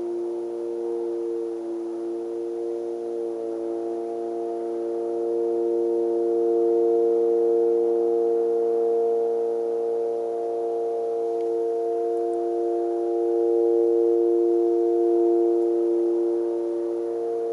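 A steady, low droning hum made of several held tones sounding together, swelling louder about five seconds in and again past the middle.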